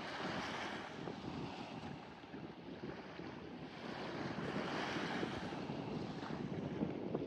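Wind buffeting the microphone, a low flickering rumble under a rushing hiss that swells twice, about half a second in and again around five seconds in.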